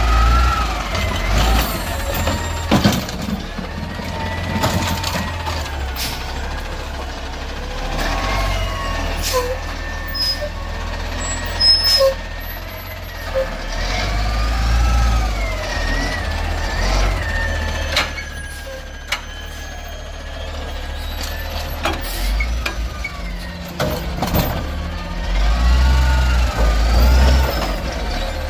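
Refuse truck working: its diesel engine runs with a steady low rumble, joined by whines that rise and fall and by a number of sharp knocks and bangs.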